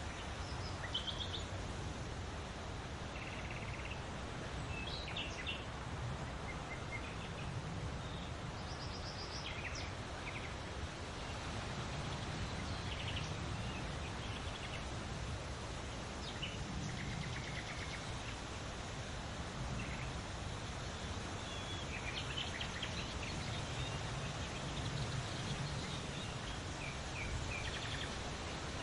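Wild birds chirping and calling in short, scattered phrases over a steady outdoor background of hiss and low rumble.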